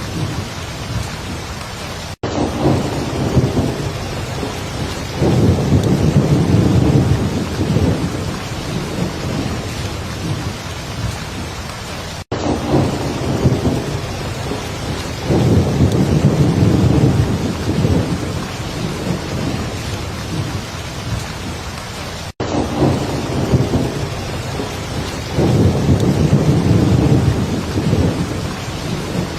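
Heavy rain falling steadily, with low rumbles of thunder swelling and fading about every ten seconds. The sound briefly cuts out for an instant three times, about ten seconds apart.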